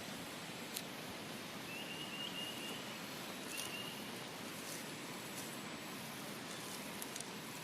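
Outdoor ambience: a steady hiss with a few faint clicks, and a thin high call heard twice, the first longer than the second.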